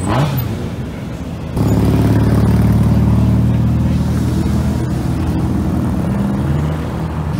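Aston Martin coupe's engine giving a short rising rev at the start, then about a second and a half in it opens up loud with a low, steady note as the car pulls away slowly.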